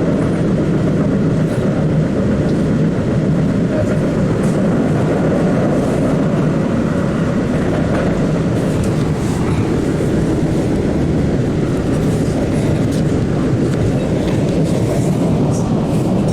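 Interior running noise of an MBTA Blue Line Siemens 700 Series subway car in motion: a steady low rumble of wheels on rail and the car body, with faint scattered clicks and rattles.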